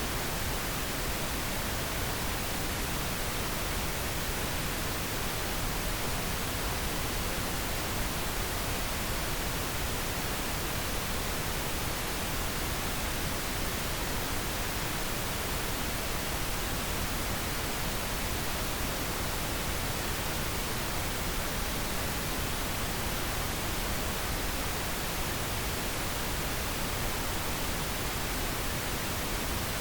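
Steady pink noise: an even, unchanging hiss across the whole range of pitch, with no breaks or changes.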